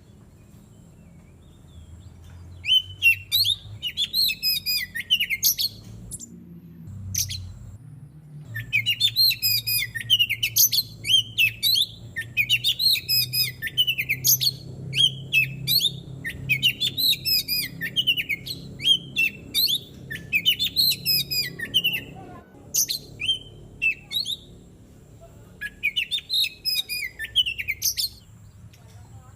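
Oriental magpie-robin (kacer) singing in rapid runs of varied whistled and chattering notes, broken by a few short pauses. A faint low hum runs underneath.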